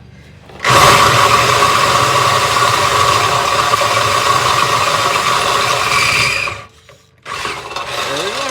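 Electric drill boring a 1/2-inch bolt hole, the motor running steadily under load for about six seconds, then stopping. A shorter burst of sound follows near the end.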